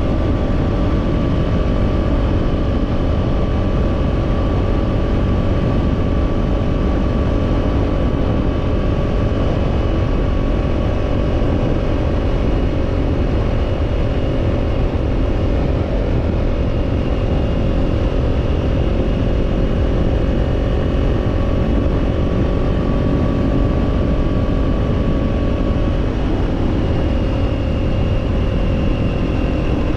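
Kawasaki Z-series parallel-twin motorcycle with an aftermarket slip-on exhaust, cruising at a nearly steady engine speed, its tone drifting only slightly, under heavy wind rumble on the action-camera microphone.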